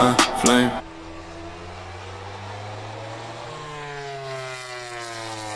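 Music cuts off under a second in, leaving a MotoGP race motorcycle's engine running, its note gliding down from about three and a half seconds in.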